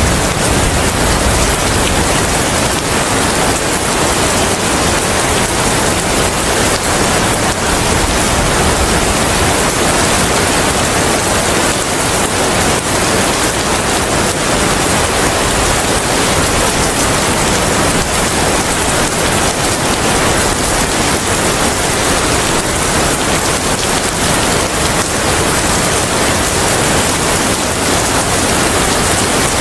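Steady heavy rain: a dense, even hiss of rain falling on surfaces.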